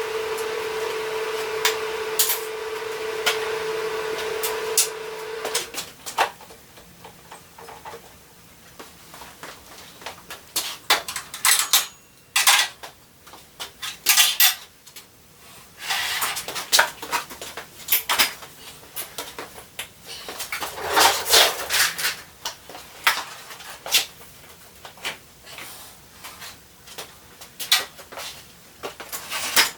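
A steady machine whine for about five seconds that cuts off suddenly. Then scattered metal clanks, knocks and rattles of steel parts being handled and fitted together, in short bunches.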